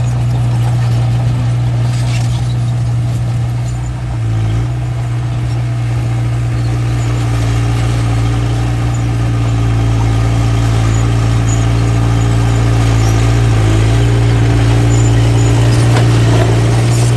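Diesel engine of a small bulldozer running steadily, with a brief dip in level about four seconds in.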